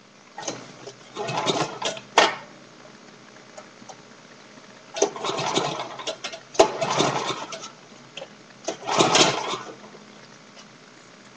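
Old Craftsman small engine being pull-started cold: four hard pulls on the recoil starter, each a rasping burst of about a second, with a sharp clack during the first and second. The engine does not settle into a steady run.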